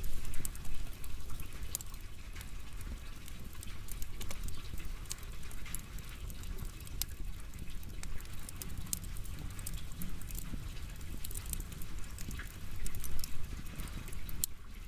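Firewood burning, crackling with many irregular sharp pops and snaps over a steady low rumble, with a busier burst of crackles near the end.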